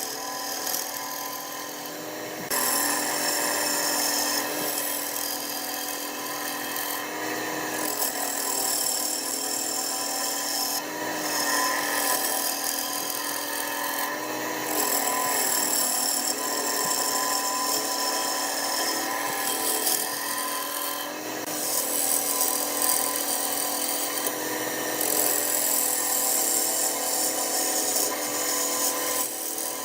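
Wood lathe running with a hand tool cutting into the spinning wood: a steady motor hum under a scraping, rubbing cut whose pitch and strength shift every few seconds as the tool moves.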